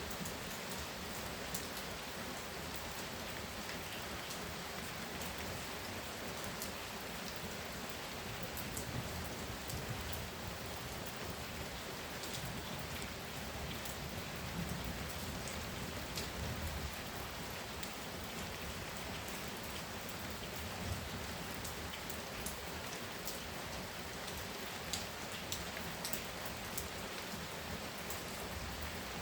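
Heavy rain falling steadily, a dense even hiss with many individual drops ticking sharply against a surface.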